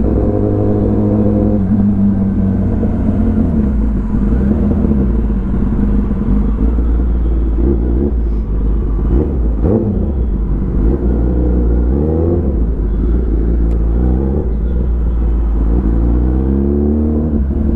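Kawasaki ZX10R's inline-four running through an Arrow full exhaust system while riding, its note rising and falling with the throttle. It revs up sharply around twelve seconds in and again near the end.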